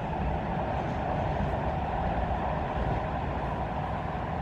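Metro train running at steady speed, heard from inside the passenger car: a constant low rumble with a steady hum above it.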